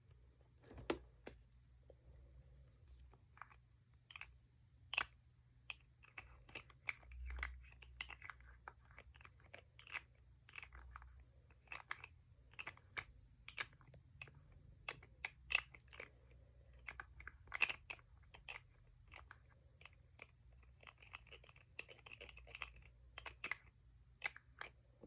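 Fingernails tapping and scratching on makeup packaging: irregular sharp taps with short stretches of scratching in between.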